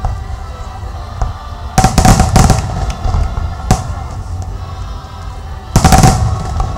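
Aerial fireworks going off: a cluster of sharp bangs and crackles about two seconds in, a single bang a little later, and another loud cluster near the end, over a steady low rumble.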